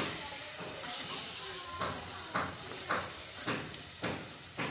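Chopped onions and tomatoes sizzling in hot oil in a metal pot while a wooden spoon stirs them, each stroke scraping about twice a second: the masala being fried (bhuna) as the base of a curry.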